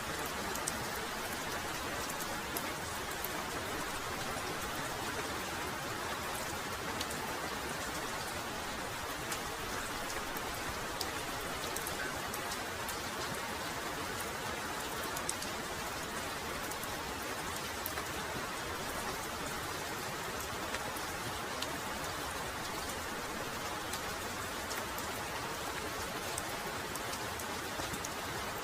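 Heavy rain falling steadily, a continuous hiss with scattered sharp taps of single drops.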